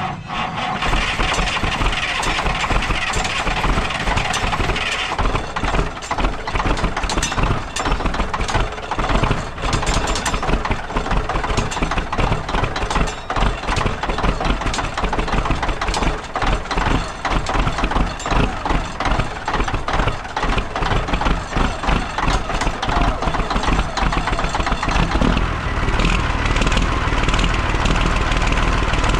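Caterpillar 3406B straight-six diesel in a 1981 Peterbilt 359 being cranked on the starter in a cold start after sitting for months in the snow, a long ragged churn of uneven firing. Near the end it settles into a steadier, deeper run as the engine catches.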